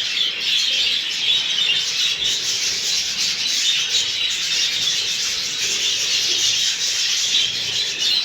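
A large flock of budgerigars chattering continuously, a dense, steady mass of high twittering calls.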